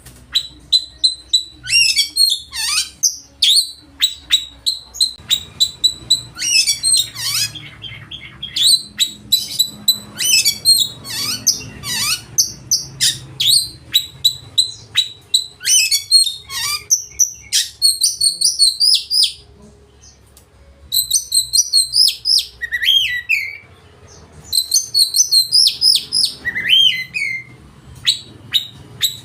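Oriental magpie-robin (kacer) singing loudly: a fast, varied run of chirps, whistles and trills, its full repertoire of learned imitations. The song breaks off briefly about 20 seconds in and again about 24 seconds in.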